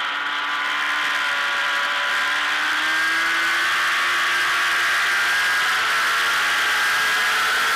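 Race superbike engine heard from onboard at speed, its note rising steadily as the bike drives out of a leaned-over corner and then holding high, over rushing wind.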